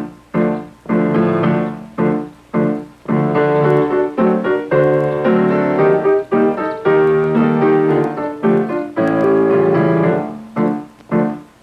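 Piano playing a bouncy instrumental passage of struck chords, some short and detached with gaps between them, others held for longer.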